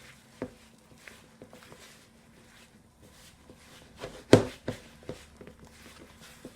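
Dough being mixed in a bowl: a scatter of small irregular taps and knocks, with one louder knock about four seconds in.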